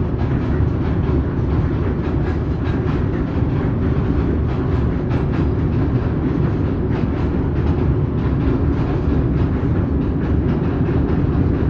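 Express train running on the line, a steady heavy rumble of wheels on rails with repeated clacking over the rail joints.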